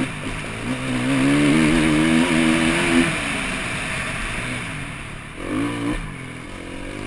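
KTM EXC-F four-stroke single-cylinder enduro motorcycle engine pulling hard under throttle on a dirt trail, its pitch climbing for about two seconds before the throttle is chopped about three seconds in, then a short burst of throttle near the end, over a steady rushing noise.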